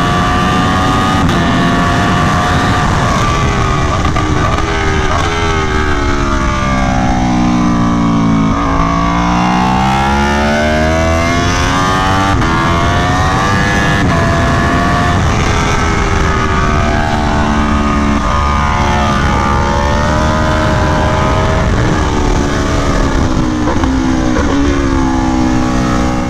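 Aprilia Tuono V4 1100 Factory's V4 engine through an SC Project CR-T exhaust, pulling hard on track: its pitch drops steeply as it slows from about six to nine seconds in, then climbs again through the gears, with several more rises and dips.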